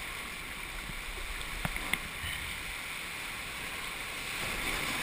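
Steady rush of river water around a raft, with one short sharp knock about two seconds in.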